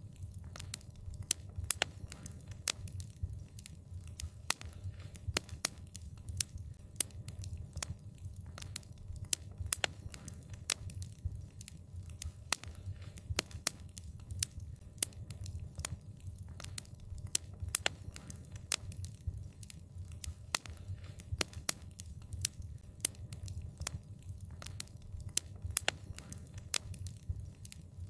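Wood fire crackling: many sharp, irregular pops and snaps, several a second, over a low steady rumble of burning.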